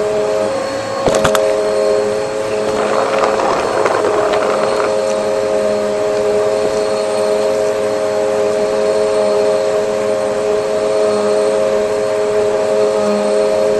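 Vacuum cleaner running steadily, its motor giving a constant whine over a rushing hiss. A sharp click comes about a second in, and a crackling rattle follows a few seconds in.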